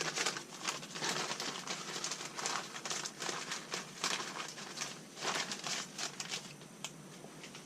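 Packaging being handled: irregular crinkling and rustling, busy for most of the stretch and thinning out and fading near the end.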